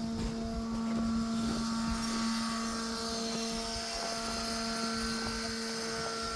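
Small quadcopter camera drone (DJI Mini 3) hovering, its propellers giving a steady multi-tone whine.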